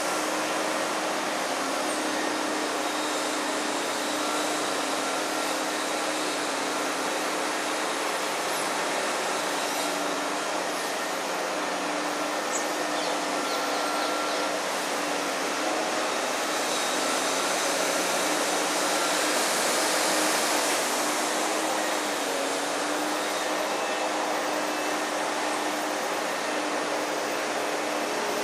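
A loud machine running steadily: a continuous whooshing noise with a low hum through it, the hiss swelling for a few seconds past the middle before settling back.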